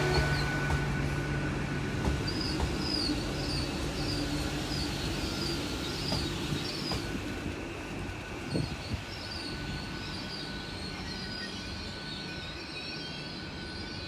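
A train moving slowly through the station, with a steady low hum that fades away over the first few seconds. A series of short, high squeals comes about twice a second, typical of wheel flanges squealing on curved track. The overall sound slowly gets quieter.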